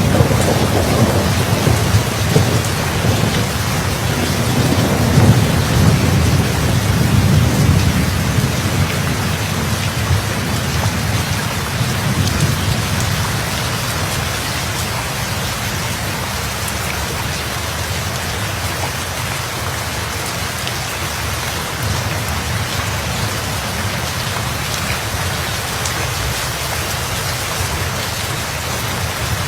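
Steady rain with a long, low roll of thunder that fades away over the first half, leaving the rain alone.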